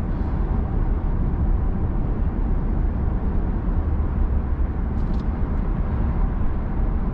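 Steady low road and tyre noise with muted engine hum inside the cabin of a Genesis G80 3.5 turbo sedan cruising on a highway.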